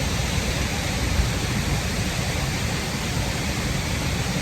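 Looking Glass Falls pouring into its pool, heard close by at its base: a steady, unbroken rushing noise with a deep rumble underneath.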